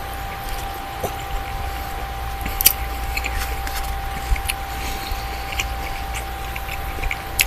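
Person chewing food: small wet clicks and smacks, scattered irregularly, over a steady low electrical hum with a faint constant tone.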